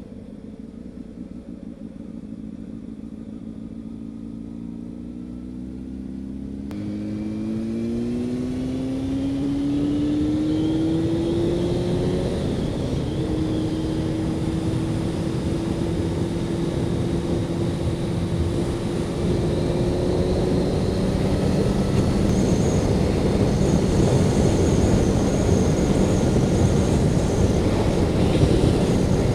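Honda CB600F Hornet's inline-four engine accelerating, its pitch rising over the first dozen seconds, then holding steady at cruising speed. Rushing wind on the microphone grows louder as the speed builds.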